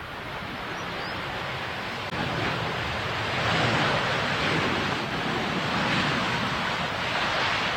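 Jet airliner on landing approach passing by, its engine noise building over the first three or four seconds and then staying loud, with wind buffeting the microphone.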